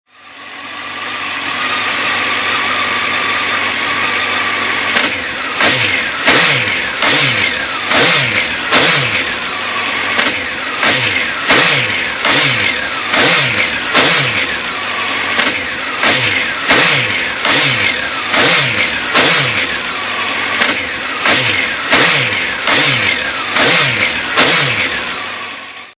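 Honda CBR929RR's 929 cc inline-four on its stock exhaust, idling steadily for about five seconds, then blipped over and over in quick throttle stabs. The revs fall back after each blip, about one every second or less.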